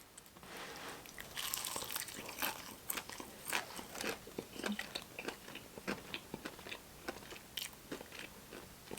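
Close-miked chewing and crunching of Popeyes fried chicken: many short, irregular crisp crackles as the breading is bitten and chewed.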